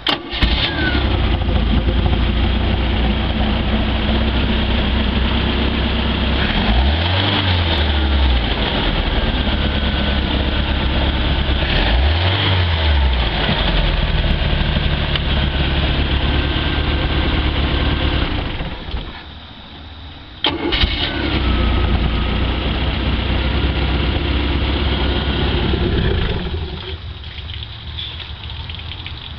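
MerCruiser 140 hp 3.0-litre four-cylinder marine engine starting and running steadily, with two brief revs. About two-thirds of the way through the sound drops away for a couple of seconds, then the engine starts again and runs. It now starts and keeps running on a freshly rebuilt carburettor; the stalling fault was the carburettor, not the fuel pump.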